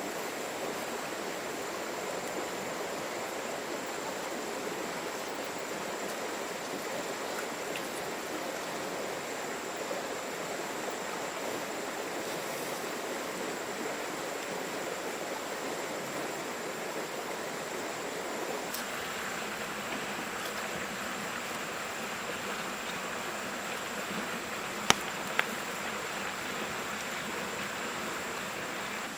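Steady rush of flowing water, like a stream, with two sharp clicks close together near the end.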